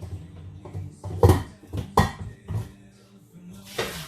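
A serving utensil clinking and knocking against a cooking pot and a plate as boiled potatoes are dished out: a few separate sharp knocks.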